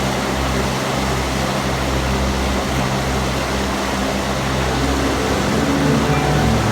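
Large fan blowing a strong, steady current of wind: a continuous rush of air over a low hum.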